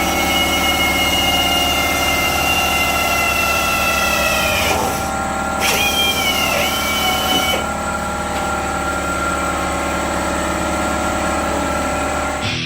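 A machine running steadily with a high whine that drops in pitch a little over four seconds in, then rises and falls again about two seconds later, over a steady mechanical hum.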